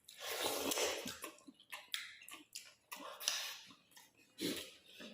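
Close-miked eating sounds: a breathy rush of air lasting about a second, then scattered mouth clicks and smacks.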